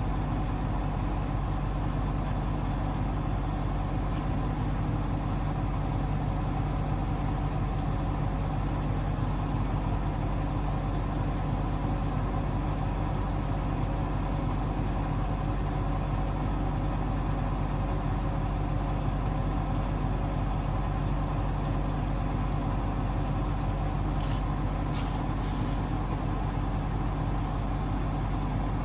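Hoover DXOA610AHFN-80 front-loading washing machine in its high-speed final spin, a steady hum with a few fixed tones. A few faint ticks come near the end.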